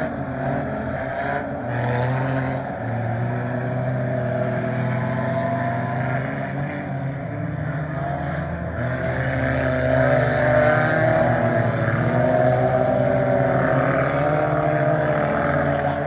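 Pack of scramble race cars running laps, several engines overlapping and rising and falling in pitch as they go around, louder about two-thirds of the way through.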